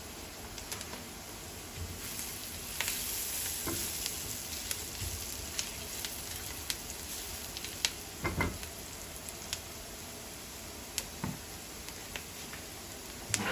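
Chopped onions frying in a non-stick frying pan: a steady sizzle with scattered crackles, while a plastic spatula stirs and scrapes through them. A few sharper clicks and knocks of the spatula against the pan come through, the loudest cluster about eight seconds in.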